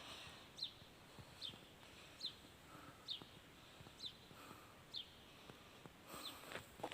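A bird repeating a faint, short, high call that slides downward, about once a second.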